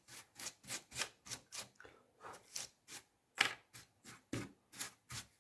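Short dry scrubbing strokes, about three a second, as dust is cleaned off a laptop's cooling fan area.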